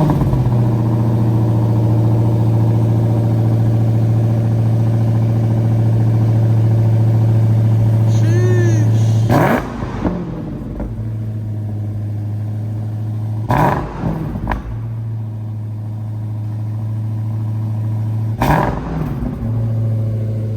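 Dodge Challenger SRT Demon's supercharged 6.2-litre Hemi V8 on a cold start, catching and holding a loud, steady fast idle. It then takes three short throttle blips, about ten, fourteen and nineteen seconds in, and idles quieter after the first.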